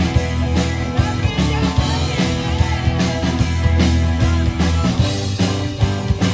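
Rock band playing live: a steady drum beat under sustained bass notes and guitar.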